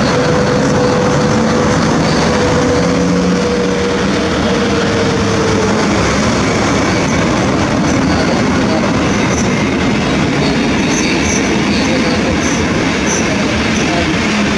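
EP09 electric locomotive and its passenger coaches rolling past slowly with a steady rail rumble. A thin tone sinks slightly in pitch over the first few seconds, and short high wheel squeals come in the second half as the coaches pass.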